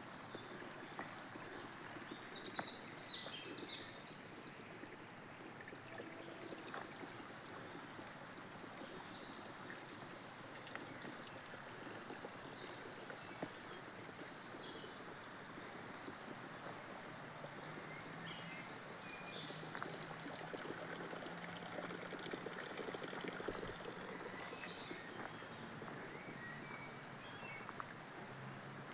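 Running water, like a stream or trickle, with birds chirping now and then. A low steady hum comes in a bit past halfway.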